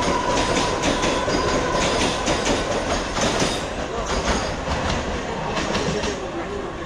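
Train running on the rails, its wheels clattering over rail joints in a series of clicks, with a thin steady wheel squeal during the first couple of seconds; the noise eases off near the end.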